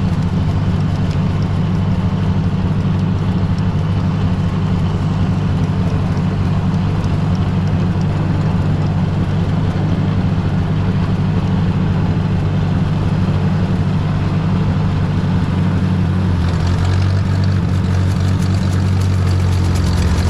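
Ford 641 tractor engine running steadily at high throttle in low gear while pulling a PTO-driven brush hog mower through tall grass. The engine note shifts slightly about three-quarters of the way through.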